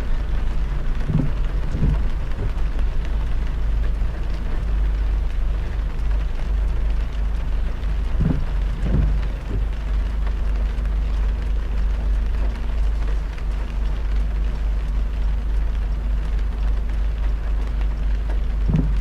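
Heavy rain on a moving car, over a steady low road and tyre rumble. Pairs of soft low thumps, about half a second apart, come three times, roughly every seven seconds.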